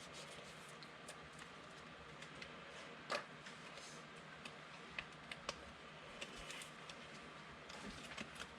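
Faint scattered clicks and light taps of trading cards being handled and sorted, the sharpest tap about three seconds in.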